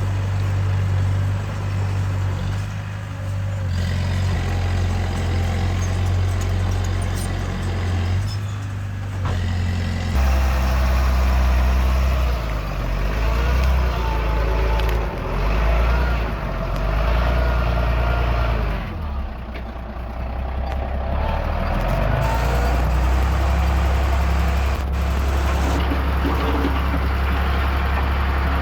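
Diesel engine of heavy earthmoving machinery running steadily, with the engine note and load shifting several times as the machine works soil into water.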